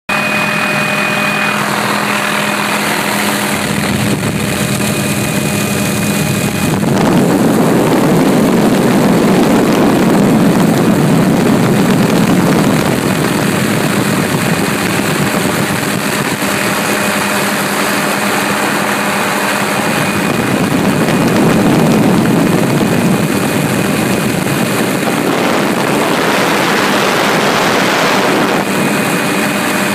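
Steady drone of an aircraft engine, with a constant hum under a wash of rushing noise. The rushing swells louder for about six seconds starting around seven seconds in, and again briefly around twenty-one seconds.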